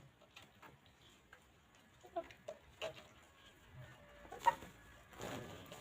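Hens clucking softly, with a few short clucks about two to three seconds in. A single sharp click about four and a half seconds in is the loudest sound, followed by a brief rustle.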